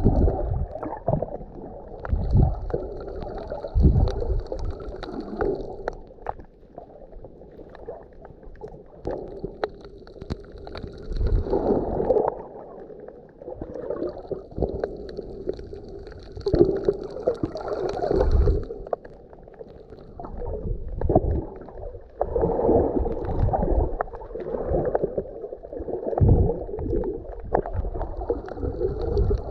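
Muffled sea water gurgling and sloshing around a camera held underwater, with low thumps as the water surges every few seconds.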